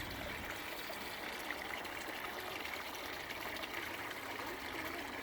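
Water from a small DIY garden-pond waterfall trickling and splashing steadily into the pond.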